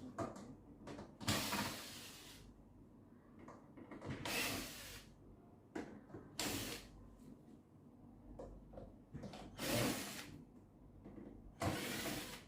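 Cordless screwdriver running in about five short bursts, backing out the microwave's outer cover screws to open the casing.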